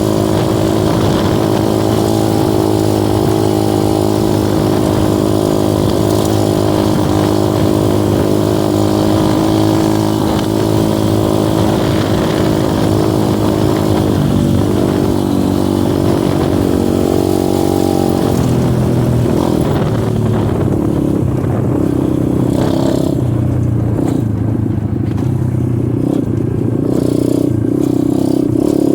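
Dirt bike engine running under steady throttle while riding a trail. About halfway through the pitch steps down, and after about two-thirds it turns lower and uneven, with clatter and scraping from the trail.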